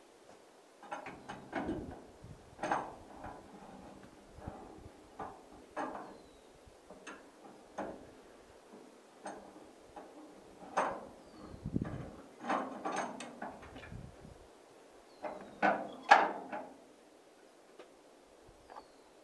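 Irregular knocks and clunks, a dozen or more separate hits spread unevenly, with the loudest a sharp knock about three-quarters of the way through; no engine is running.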